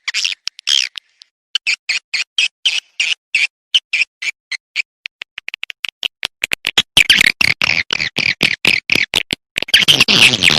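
Swiftlet lure call recording: a quick series of short, sharp, high chirps, about four a second, that thickens into a dense, continuous twittering about six seconds in.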